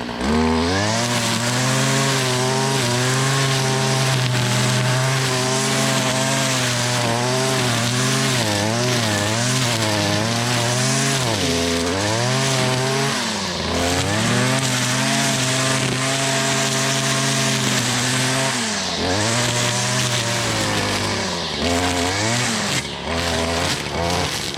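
Gas two-stroke string trimmer (weed eater) with a string head running at high throttle, cutting tall grass and weeds. Its engine pitch dips and recovers several times, mostly in the middle and near the end, as the head bogs in thick growth or the throttle is let off.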